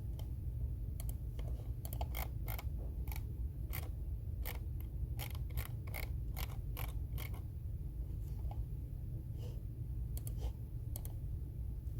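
Computer keyboard typing: a run of irregular key clicks for about six seconds, a pause, then a few more clicks near the end, over a steady low hum.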